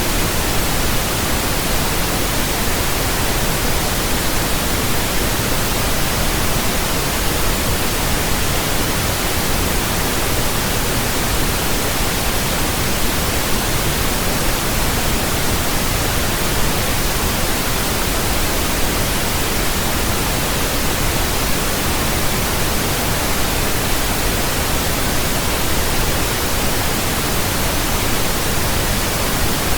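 Steady, even pink noise: a constant hiss with a deeper rumble beneath it, unchanging throughout.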